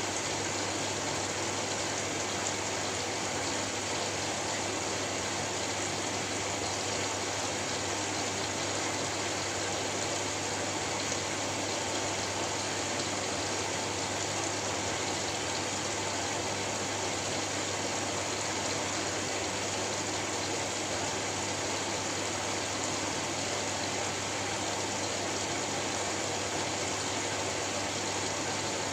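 Steady, unchanging white noise, a rushing hiss like running water with a low hum underneath.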